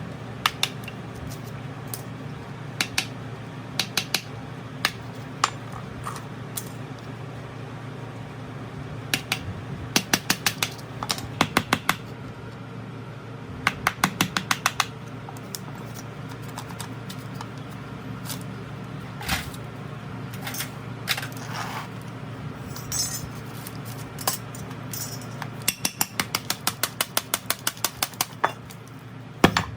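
Sharp metallic clicks and taps of metal parts and tools being handled, several of them in quick runs of about five or six a second, over a steady low hum.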